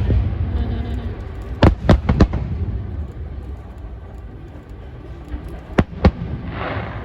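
Fireworks bursting: three sharp bangs in quick succession about two seconds in and two more near six seconds, over a low continuous rumble.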